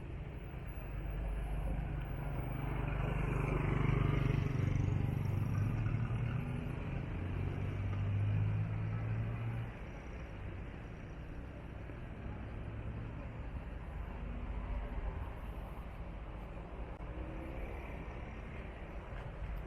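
A motor vehicle's engine rumbling, swelling to its loudest about four seconds in and dropping off sharply about halfway through, leaving a steady low rumble.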